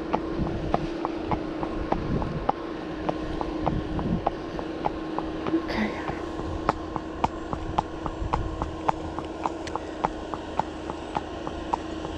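Horse's hooves clopping at a walk on a hard road, about three strikes a second, over the steady drone of a hedge-cutting tractor. Wind buffets the microphone.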